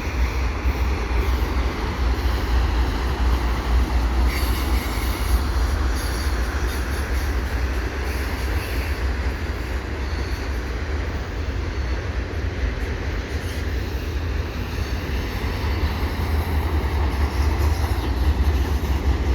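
A CN freight train of empty auto-rack cars rolling past on the rails: a steady rumble of wheels on track, with a brief faint squeal about four seconds in.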